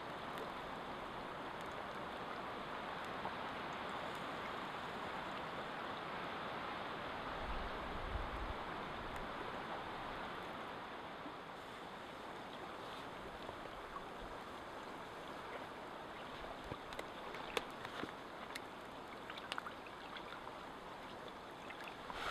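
Water running steadily, a continuous rushing like a small stream, with a few faint clicks in the second half.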